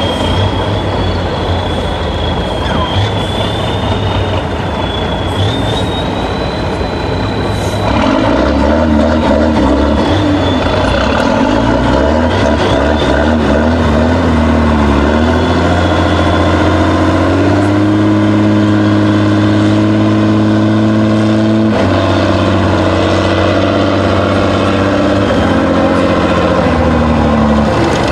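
A heavy diesel engine in an off-road trial truck works under varying load, its pitch rising and falling as the driver works the throttle. A thin high whine sounds over the first eight seconds. The engine gets louder and deeper about eight seconds in, holds a steady pitch for several seconds, then drops suddenly near 22 seconds.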